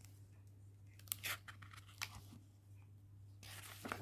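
Book pages being handled and turned: short paper rustles and clicks a little after a second in and at about two seconds, then a longer rustle near the end, all faint over a low steady hum.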